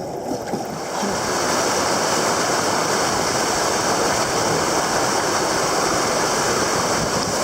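Rushing river water: a steady, loud rush that starts about a second in and holds.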